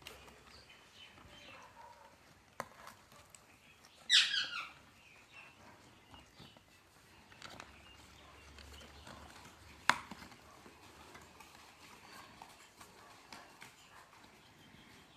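A parrot gives one short, harsh screech falling in pitch about four seconds in. Around it are soft scattered clicks and scratches, with a sharp click near ten seconds.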